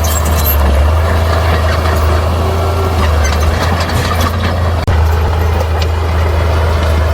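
Bulldozer's diesel engine running with a steady low drone, with scattered clanks and scrapes from the tracks and rock.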